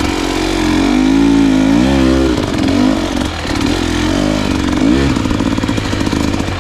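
Dirt bike engine revving as it rides a trail, its pitch rising and falling with the throttle, with blips about a second in and again about five seconds in.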